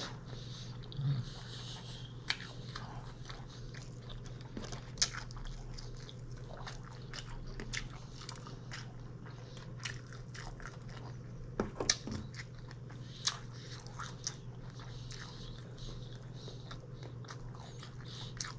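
A person chewing and biting food close to the microphone, with scattered sharp mouth clicks and crunches.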